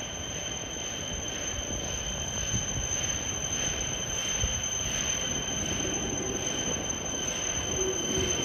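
E5-series Shinkansen train approaching along the platform track, a steady rushing rumble that grows gradually louder.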